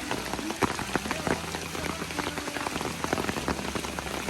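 Steady rain falling, with many sharp ticks of individual drops striking.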